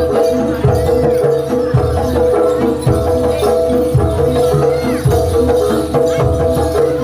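Loud live jaranan (kuda lumping) music over a sound system: a steady held melody note over percussion, with deep drum strokes about once a second.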